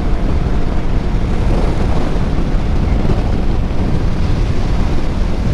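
Wind rushing over the microphone along with a motorcycle engine running steadily while riding.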